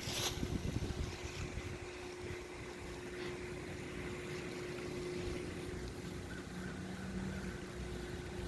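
Wind gusting and rumbling on the microphone, with a faint steady hum underneath and a sharp click at the start.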